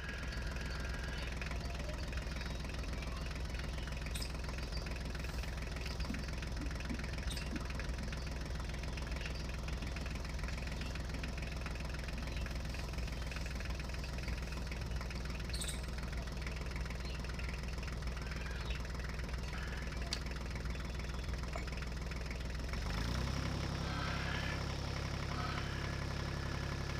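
A small motor running with a steady hum, a few light clicks over it; about 23 seconds in its tone shifts higher and stays there.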